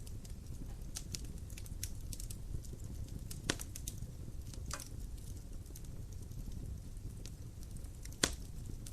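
Wood fire in a fireplace crackling: a steady low rumble of flame with irregular small crackles and two louder sharp pops, one about three and a half seconds in and one near the end.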